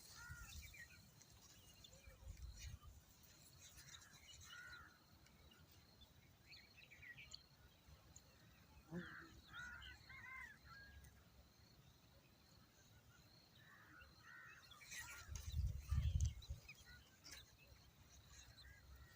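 Scattered short, faint bird chirps, with a thin high note running under them. Twice, a brief low rumble is the loudest sound: once a couple of seconds in, and more strongly about three-quarters of the way through.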